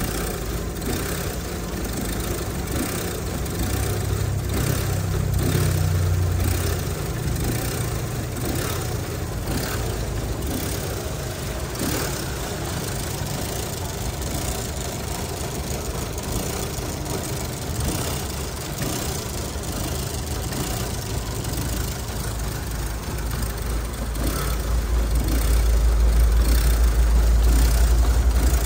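2012 Chevrolet Cruze LTZ four-cylinder petrol engine idling unevenly, with a low heavy surge about four seconds in and again near the end. It is the jerking, missing idle of an engine that runs quietly but fires unevenly, cause not yet found.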